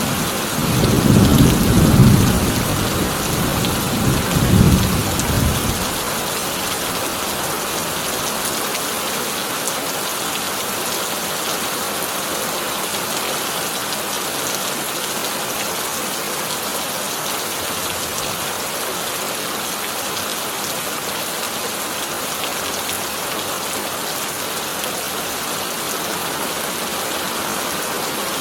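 Heavy rain falling on a corrugated tin roof, a steady hiss. Thunder rolls in two low swells in the first few seconds and fades out about six seconds in, after which only the rain remains.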